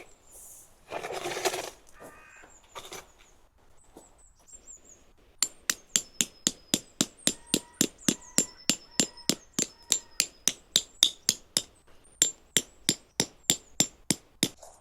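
A hammer striking steadily, about three blows a second, starting about five seconds in, with a brief rustle before it.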